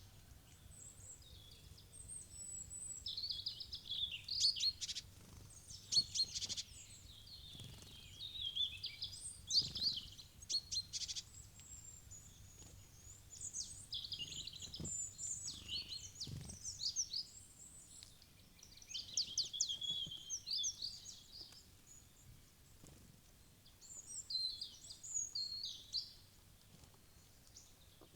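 Small forest birds chirping and calling, many short high chirps and trills from several birds, with quieter gaps between, and a few faint knocks in between.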